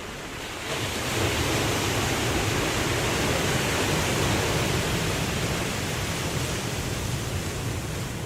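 Ocean waves breaking and washing in, a steady rushing that swells up about a second in and then slowly eases off.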